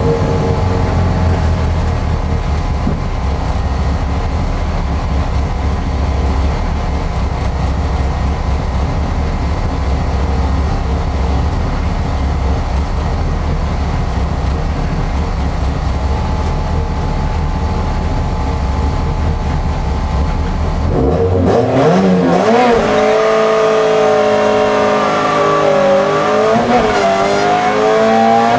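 Opel Kadett GSI Group A car's four-cylinder engine, heard from inside the cabin, idling steadily at the start for about twenty seconds. It then launches and revs hard, its pitch climbing and falling back at each gear change.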